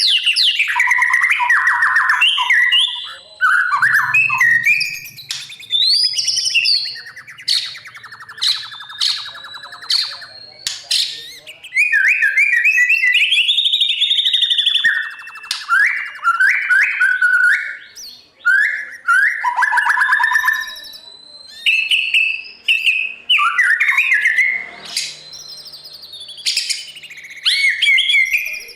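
White-rumped shama singing a long, varied song: phrases of clear gliding whistles, a fast rattling trill and sharp clicks, separated by short pauses.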